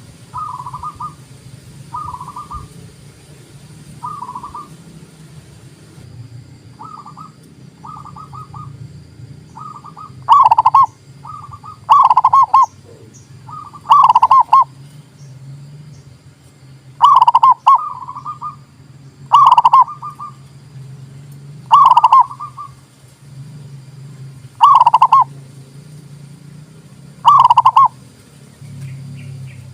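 Zebra doves (perkutut) cooing. Soft, rapid stuttering coo phrases come in the first ten seconds, then a loud short coo phrase every two to three seconds, over a steady low hum.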